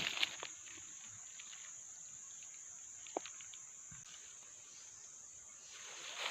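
Steady, high-pitched insect drone, with a few faint rustles and one short sharp click about three seconds in.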